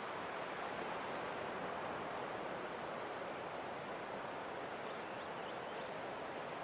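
Ocean water making a steady, even wash of noise, with no distinct wave breaks standing out.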